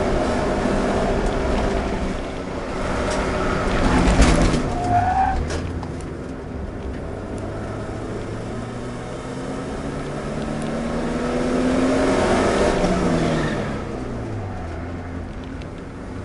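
Subaru Impreza's flat-four boxer engine heard from inside the cabin while lapping a circuit. The revs drop with a falling pitch about four seconds in, with a brief short squeal, then the engine climbs steadily in pitch under acceleration and falls again near the end as the driver lifts off.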